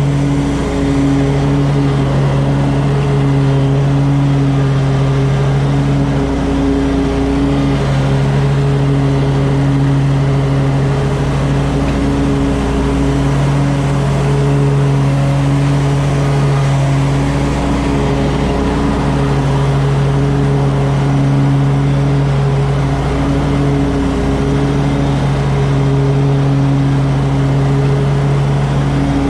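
Engine running steadily at a constant speed, a loud even hum that dips briefly every few seconds.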